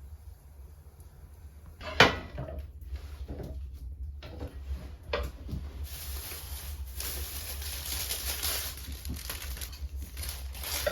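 Indoor knocks and clatter of things being handled, with one sharp knock about two seconds in and a few softer ones after it, then a steady hiss from about halfway, over a low rumble.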